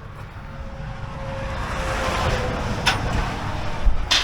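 A road vehicle passing by, its noise building over about two seconds and then holding, with a faint tone that sinks slightly in pitch. Two sharp knocks, one about three seconds in and one at the end.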